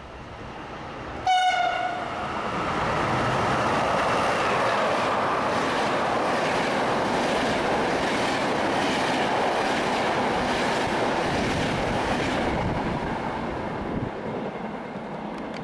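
Electric passenger train sounds one short horn blast about a second in, then passes through the station at speed. The long loud rush of wheels on rail carries repeated clicks over the rail joints, easing off near the end.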